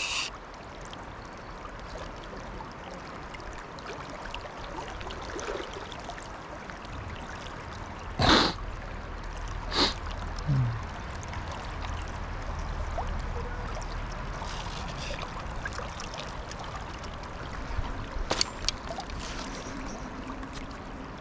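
Fast-flowing river water running steadily, broken by a few brief sharp sounds: the loudest about eight seconds in, another near ten seconds and a short cluster near eighteen seconds.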